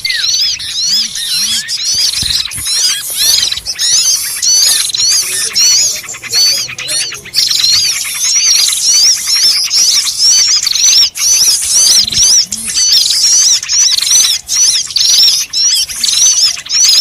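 Bird-lure recording of a noisy flock of small birds, a dense and continuous chatter of rapid high up-and-down chirps, played to draw small birds in.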